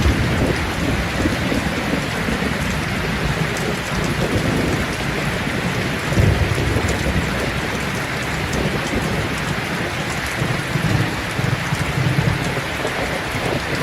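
Steady heavy rain hissing down, with low rumbles of thunder swelling and fading a few times.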